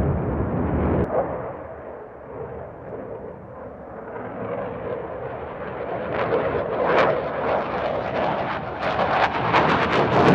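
Jet fighter engine roar during a flypast, dipping after a couple of seconds and then building again. From about halfway it turns into a harsh crackle of rapid sharp pops.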